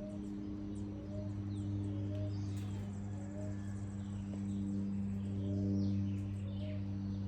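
Outdoor tropical ambience: a steady low drone under a short rising chirp repeated about once a second, with scattered high bird calls.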